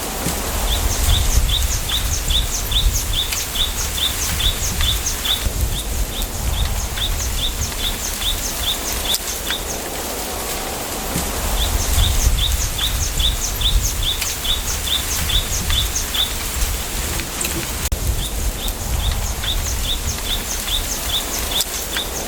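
Wind through a bamboo grove: a steady rustle of leaves with a low rumble of wind on the microphone. Over it a bird repeats a short high note about three times a second, in several runs of a few seconds each.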